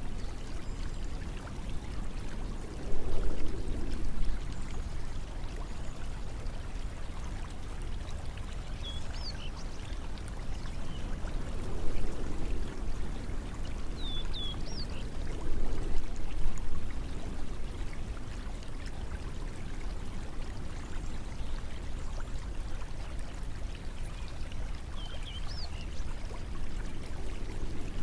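Running water flowing steadily, like a stream, swelling louder every several seconds. A few faint, short, high chirps come through now and then.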